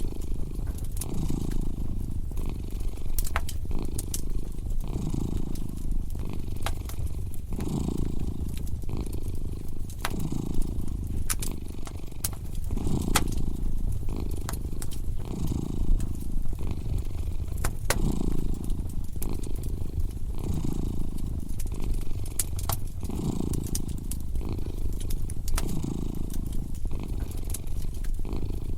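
Domestic cat purring close up, its purr swelling and fading with each breath about once a second, over a crackling wood fire with scattered sharp pops and snaps.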